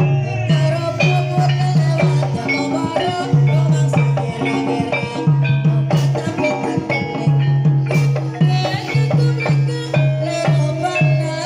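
Barongan troupe music: drums and pitched metal percussion playing a fast, steady rhythm over a repeating low note.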